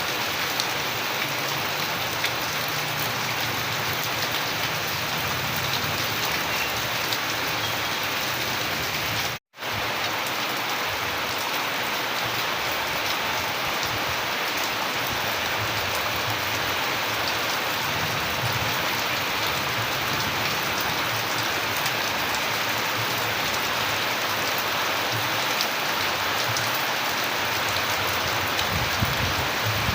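Steady, dense rain hiss with scattered droplet ticks. The sound cuts out completely for a split second about nine seconds in, then resumes unchanged.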